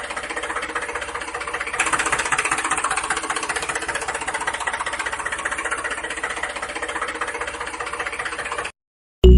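Small motor of a homemade mini tractor running with a fast, even rattle. It grows a little louder about two seconds in and cuts off abruptly near the end.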